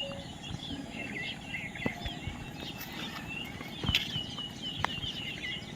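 Many parrots chirping at once in quick, short calls, with a few sharp clicks about two, four and five seconds in.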